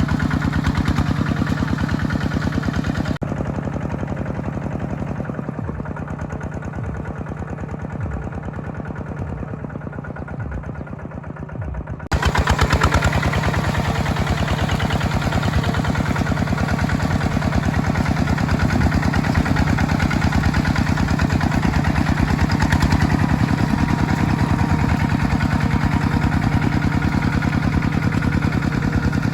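Small tractor engine running steadily with a rapid chugging beat. About three seconds in the sound turns duller, with a few brief rises in engine note. About twelve seconds in it switches abruptly back to louder, brighter running.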